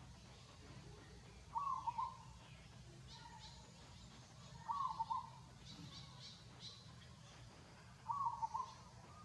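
A short, warbling animal call repeated three times, about three seconds apart, with faint high chirps in between over a low steady hum.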